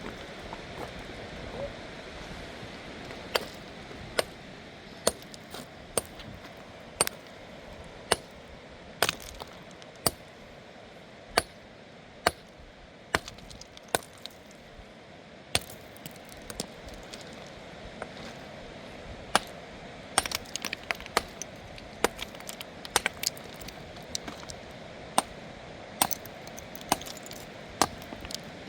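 Sharp clinks and knocks of hard objects striking, roughly one a second, with a quicker run of them about two-thirds of the way through, over a steady background hiss.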